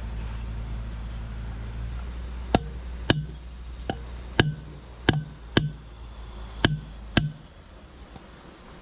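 A series of about nine sharp knocks, unevenly spaced, like chopping or hammering, over a steady low hum that stops at the last knock.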